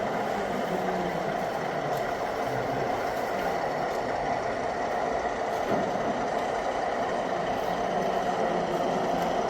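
Diesel locomotive running steadily, a continuous engine rumble.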